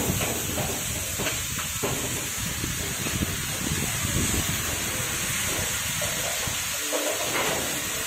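Chicken chilli frying in a hot iron kadai over a gas burner, a steady sizzle and hiss as soy and chilli sauce are poured in, with scattered clicks and knocks.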